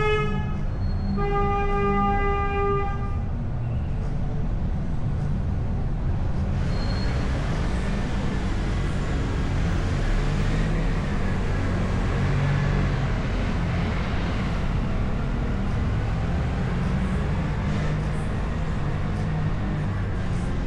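A vehicle horn sounds twice, a short toot and then a longer honk of about two seconds at one steady pitch, over the steady low rumble of a car's engine and road noise; from about six seconds in a wider hiss of wind and tyres joins the rumble.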